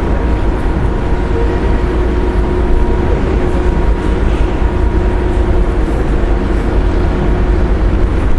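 Strong wind buffeting the microphone over the steady drone of the ferry's engines, with a constant machinery hum.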